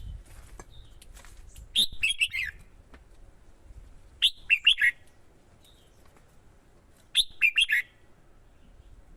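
Red-whiskered bulbul singing: three short, quick song phrases of bright, sliding notes, a few seconds apart.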